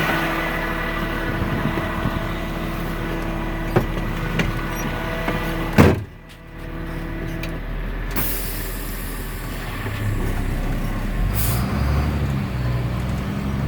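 Garbage truck's Caterpillar C7 diesel engine running steadily while the truck maneuvers. A short, sharp loud burst comes just before the middle, then it goes quieter, and the deep engine sound builds again near the end.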